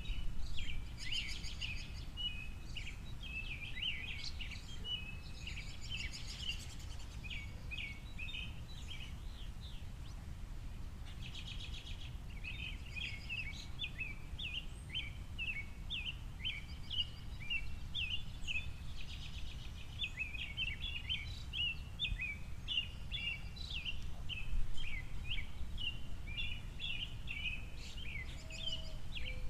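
Small songbirds chirping and twittering almost without pause, many quick short notes overlapping, over a steady low rumble.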